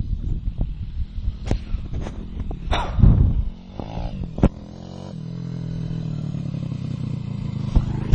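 Motorbike engine idling steadily from about four seconds in. Before that come rumbling, knocking handling noise and a louder clatter about three seconds in.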